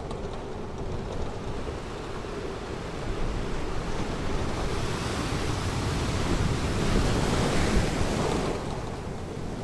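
Ocean surf washing on a beach: a steady low rush of water, with a wave building through the middle and washing loudest near the end, then easing off.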